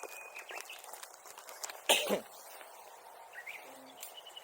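A person coughing once, sharply, about two seconds in.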